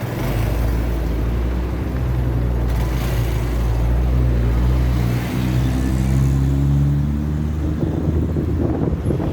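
Motorcycle engine running while riding, its note shifting up and down in pitch a few times, with wind rushing over the microphone.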